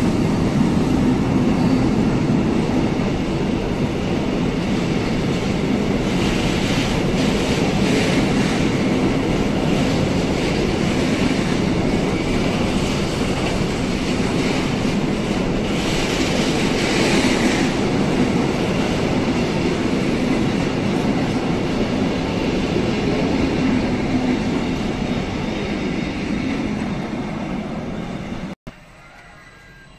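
Long container freight train rolling past: steady noise of wagons and wheels on the rails, twice turning harsher and higher-pitched for a second or two. It cuts off abruptly near the end.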